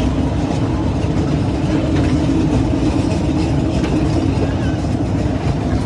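A train running with a steady, unbroken rumble and hum.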